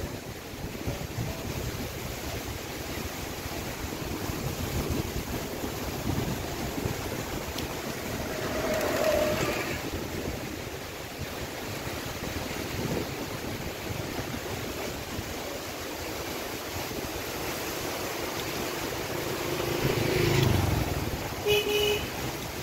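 Gusty wind buffeting the microphone ahead of rain, a steady rush that swells about a third of the way in and again near the end.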